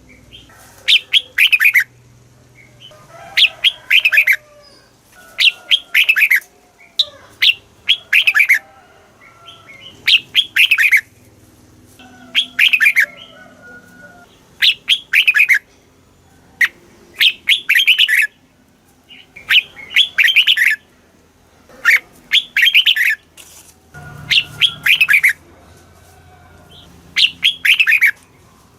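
Red-whiskered bulbul singing: loud short phrases of a few quick, falling whistled notes, repeated about every two and a half seconds, with fainter, lower chirps in between.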